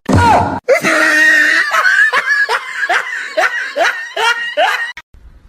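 A person laughing hard in a quick run of short bursts, about three a second, which cuts off suddenly near the end.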